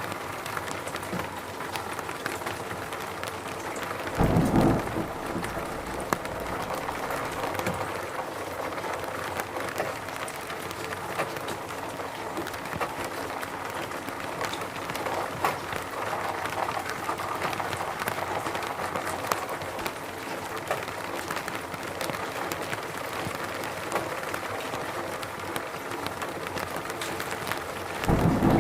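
Steady rain falling in a forest, a constant hiss with many individual drops ticking. Twice, about four seconds in and again near the end, there is a short, louder low rumble.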